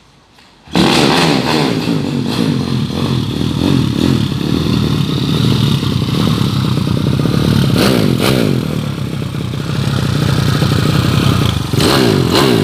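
A 150 cc single-cylinder motorcycle's engine comes in loud about a second in and runs with a burbling exhaust note meant to sound like an imported bike. It is blipped up and back down around two-thirds through and revved again near the end.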